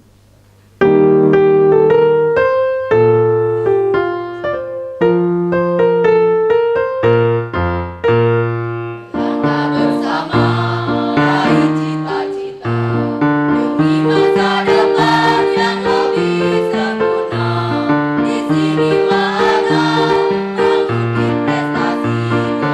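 Keyboard (electric piano) introduction to a march, starting about a second in with held chords, then from about nine seconds a fuller, busier accompaniment over a regular bass line.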